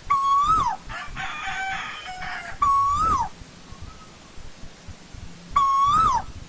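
Asian koel calling: three loud whistled notes about three seconds apart, each held steady, then flicking up and sliding down at the end. A softer, jumbled chattering fills the gap between the first two.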